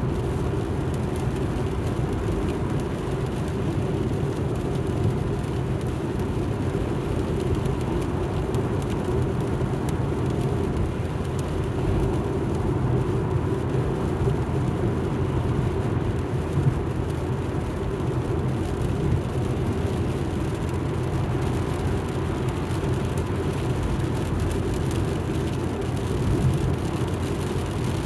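Steady road and engine noise heard inside the cabin of a moving Alfa Romeo MiTo. The rumble is low and even, with a faint steady hum above it.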